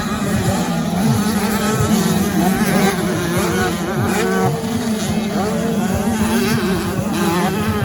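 Several 85 cc two-stroke motocross bikes racing, their engines revving up and down over one another.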